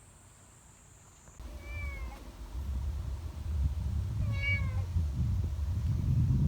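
A cat meows twice, two short calls about two and a half seconds apart. Under them a low rumbling noise grows louder.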